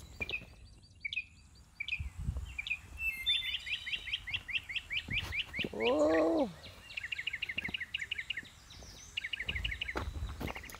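A small songbird singing: a few spaced chirps, then notes that speed up into a fast trill, repeated three times. Footsteps crunch on a rocky dirt trail underneath, and about halfway through a person gives a short hum that rises and falls, the loudest sound.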